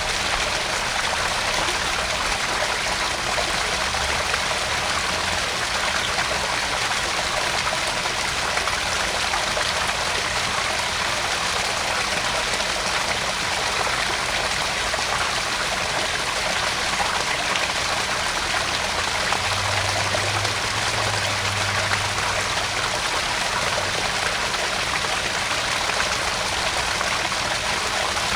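Small garden-pond waterfall: water splashing and trickling steadily into the pond, an even hiss with no breaks.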